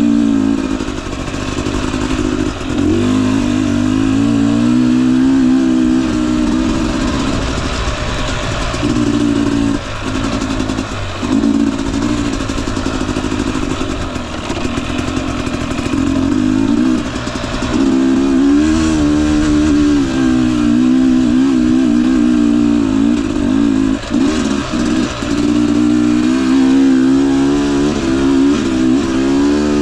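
Husqvarna TE250i two-stroke dirt bike engine running at low, varying throttle, its pitch wavering up and down, with short breaks where the throttle closes around ten and fifteen seconds in.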